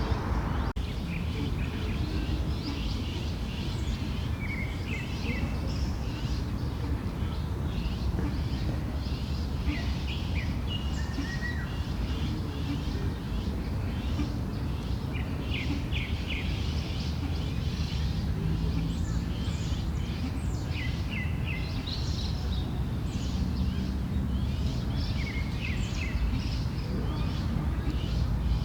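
Many small birds chirping and trilling in quick short calls throughout, over a steady low rumble of background noise.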